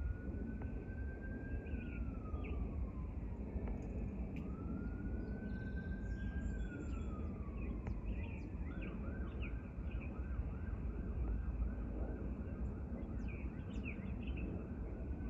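Emergency-vehicle siren on a slow wail, rising and falling about every six seconds. About nine seconds in it switches to a fast yelp for several seconds, then goes back to the wail near the end. A steady low rumble runs underneath.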